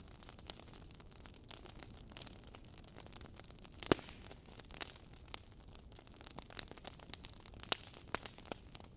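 Wood fire burning in a fireplace: logs crackling with irregular small snaps and pops over a faint steady hiss, one louder pop about four seconds in.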